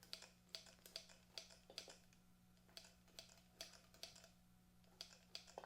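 Faint, irregular clicks and light taps over a low steady hum: ATF being squirted from a pump oil can into the cylinders of a seized Honda CB750 engine.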